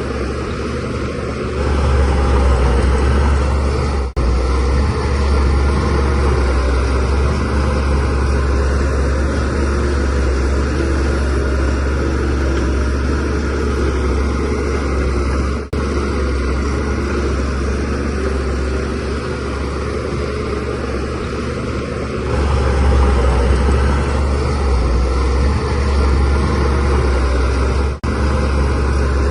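DH17C3 bulldozer's diesel engine working under load, the engine note swelling louder for stretches as it pushes soil. The sound drops out three times, very briefly.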